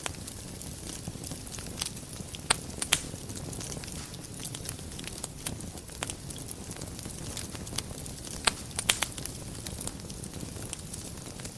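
Wood fire burning in a fireplace: a steady low rumble of flames with irregular sharp crackles and pops, the loudest pops about two and a half seconds in and again around eight and a half to nine seconds.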